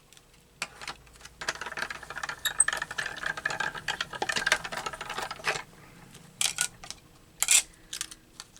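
Die-cutting machine running a die and paper through its rollers: a dense rattling clatter from about a second and a half in until past five seconds, then a few separate sharp clicks.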